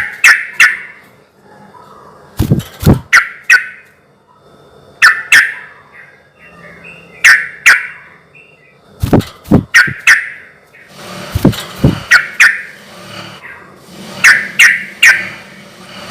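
Yellow-vented bulbul (trucukan) giving loud, lively song phrases: short bursts of two to four sharp notes, repeated about every two seconds.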